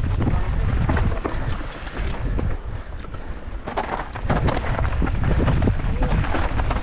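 Wind buffeting the microphone on a fast mountain-bike descent, with the clatter and rattle of the bike running over rocks and loose gravel throughout.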